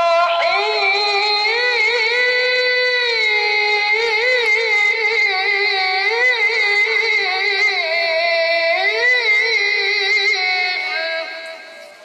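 A child's high voice chanting Quran recitation in the melodic tilawah style, drawing out long ornamented notes with quick turns of pitch, then dying away near the end.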